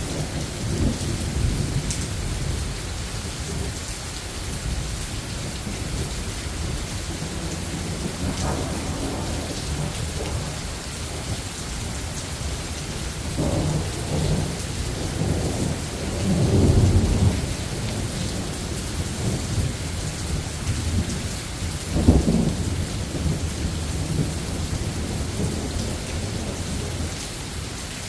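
Thunderstorm: steady rain falling, with rolling thunder. There are low rumbles a little past the middle, a longer rumble just after, and a sharp thunderclap at about four-fifths of the way through, which is the loudest moment.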